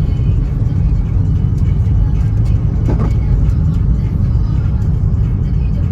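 Car driving on a wet road in the rain: a steady low rumble of engine and tyres with scattered light ticks, and one brief swish about three seconds in.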